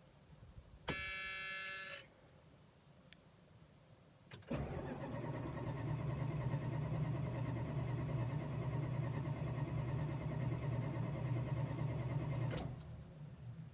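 A Chrysler's starter motor cranking the engine for about eight seconds without it catching, the car refusing to start. About a second in, a short electronic warning tone sounds once before the cranking begins.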